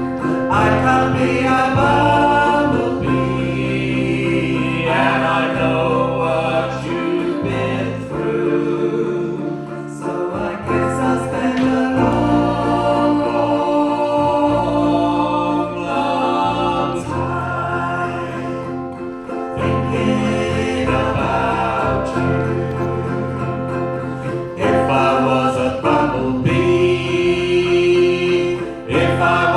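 Several voices singing wordless harmony over low held notes, in a live band performance of a folk song.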